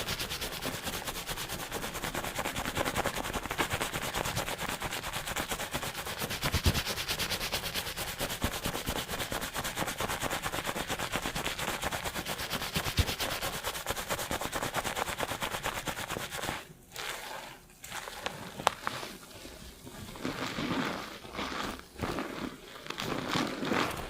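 Fingers scrubbing a lathered head of hair and scalp at high speed, a rapid, even crackle of shampoo foam. About sixteen seconds in it slows into separate strokes with short pauses between them.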